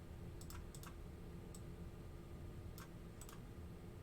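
Faint computer keyboard and mouse clicks, several scattered sharp clicks, some in quick pairs, over a steady low hum.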